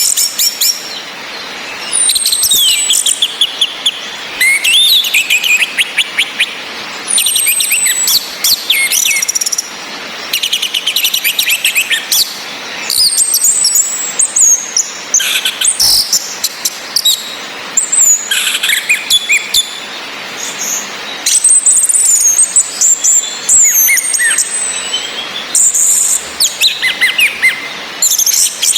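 Orange-headed thrushes calling and singing in repeated short bursts of quick, high chirps and down-slurred whistles, over a steady rain hiss.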